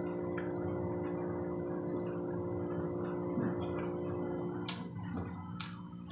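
A person chewing pizza, with a few sharp wet mouth clicks, over a steady low hum that fades out about four and a half seconds in.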